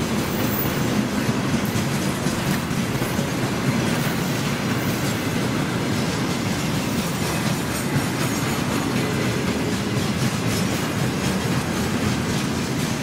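Freight train of railway tank cars rolling past: a steady rumble of steel wheels on the rails, with wheel clacks over it.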